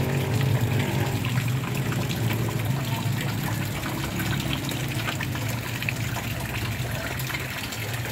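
Heavy rain falling on shallow floodwater and foliage, a steady patter of many small drops. Underneath, a low motor drone fades out in the first couple of seconds, leaving a steady low hum.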